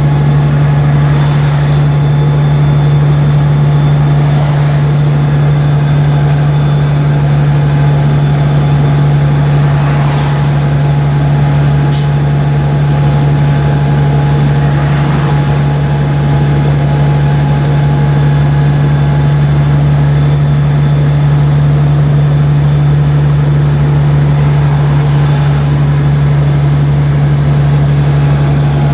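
Steady drone of a vehicle driving along the highway: engine and tyre noise with a constant low hum that holds unchanged, and a couple of faint ticks about ten and twelve seconds in.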